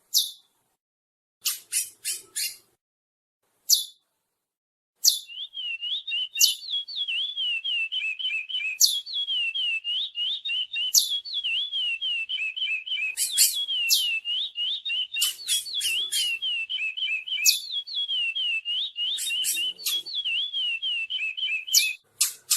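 Curió (chestnut-bellied seed finch) song: a few sharp high chirps, then from about five seconds in a long unbroken run of rapid, wavering notes with sharp high chirps mixed in, stopping shortly before the end.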